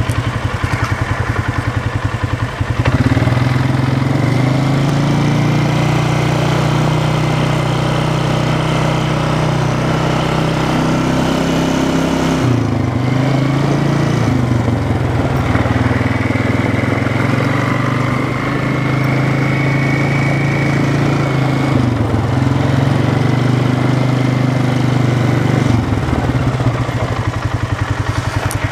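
An engine running steadily. Its speed steps up about three seconds in and shifts a few more times, settling at each new speed.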